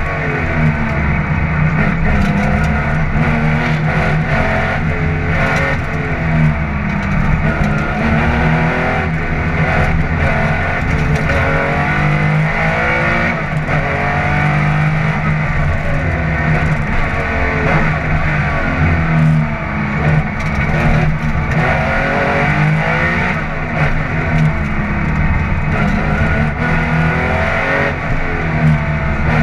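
Air-cooled flat-six engine of a Porsche 911 SC Group 4 rally car heard from inside the cabin, revving hard with its pitch climbing and dropping again and again as it is driven flat out.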